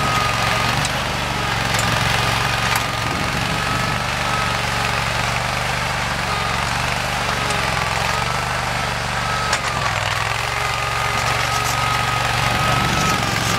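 Simplicity Legacy garden tractor's engine running steadily, with a high whine that wavers slightly in pitch over the engine note. A few light clicks sound in the first few seconds.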